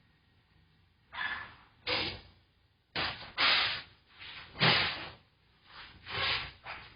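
Pneumatic tyre changer venting compressed air in a series of short, sharp hisses, about nine in all, with brief pauses between them.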